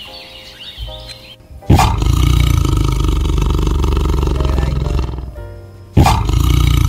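Soft music with steady notes, then about two seconds in a loud, deep animal roar starts suddenly and holds for about three and a half seconds, fading out. A second roar starts the same way near the end.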